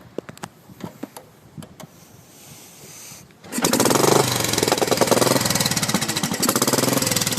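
1955 Royal Enfield Bullet single-cylinder engine with a free-flow exhaust being kick-started: a few sharp clicks, then about three and a half seconds in it fires and runs loud with a rapid beat. Its solid valve lifters can be heard clacking.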